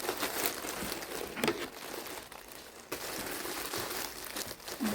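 Parcel packaging crinkling and rustling as it is handled and opened.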